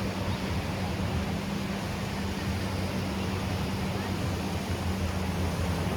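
An engine running at a steady speed, a low even hum, over the wash of surf and wind.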